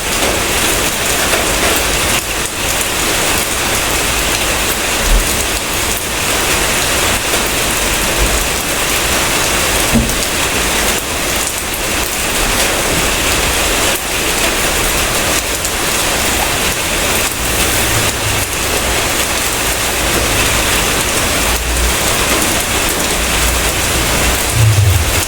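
Steady heavy rain falling, a dense even hiss. A low rumble rises under it in the last several seconds.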